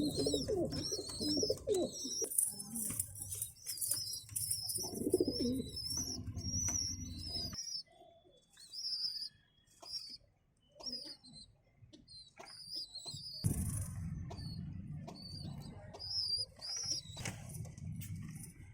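Pigeons cooing low in the first half, while squabs begging to be fed give short, high-pitched squeaks over and over. The squeaks carry on through a quieter stretch in the middle.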